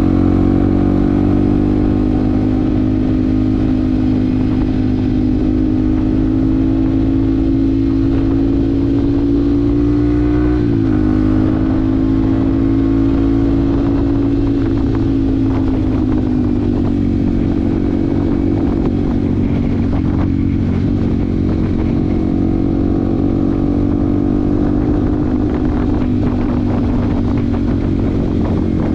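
Yamaha WR155R's single-cylinder four-stroke engine running under way at a steady cruise, its pitch creeping slowly upward. About eleven seconds in there is a short, sharp drop in pitch, then it holds steady again.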